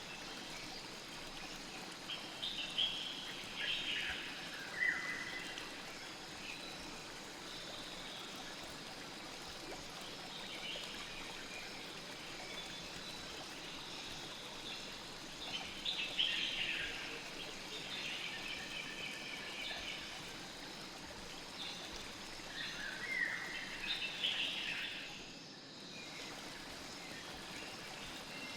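A river flowing steadily, with three short spells of bird chirps: quick calls that sweep down in pitch. Near the end the sound briefly dips.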